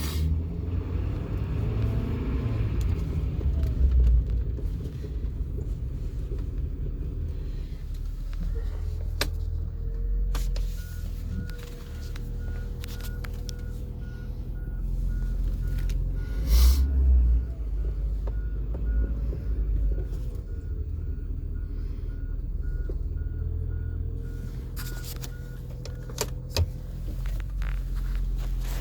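The engine of a 2011 Ford F-450 service truck running with a steady low rumble, a whine that rises and falls several times, and a few sharp knocks.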